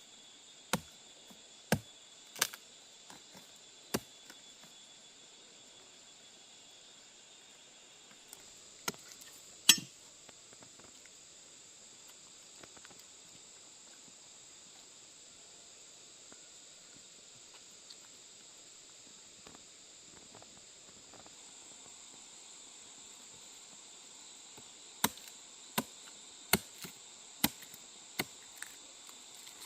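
Sharp knocks of a tool striking: a few spaced blows at the start, the loudest pair about ten seconds in, then a quick series of about seven evenly spaced strikes near the end, over a steady high hiss.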